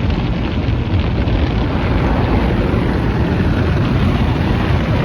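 Automatic tunnel car wash working over the car, heard from inside the cabin: a loud, steady rushing noise with no breaks.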